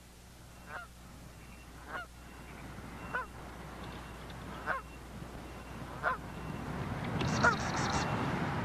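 A bird giving short single honking calls, six in all, a little over a second apart. Under the calls is a steady low hum, and a hiss grows louder toward the end.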